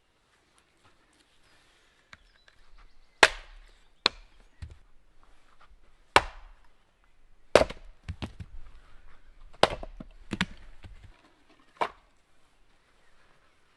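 Firewood being chopped or split: about seven sharp wooden strikes at uneven intervals, with quieter handling noise between them.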